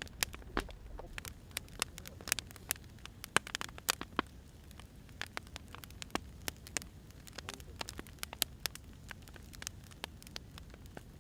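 Burning firewood crackling: irregular sharp pops and snaps, a few louder than the rest, over a low steady hiss.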